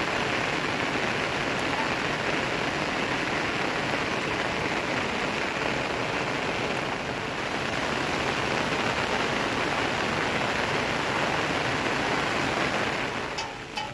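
Steady rain falling, an even hiss. Near the end it drops away and sharp clinking taps begin.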